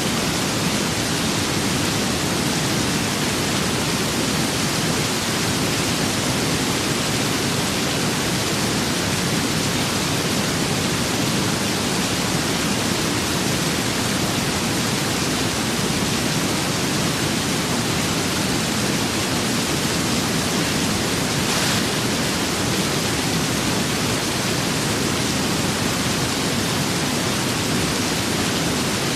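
Steady rain and wind ambience: an even, unbroken hiss with no changes in level.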